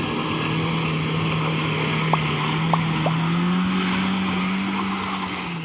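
Loaded truck's engine running steadily under load, its pitch rising slightly a little past the middle, with three short squeaks about two to three seconds in.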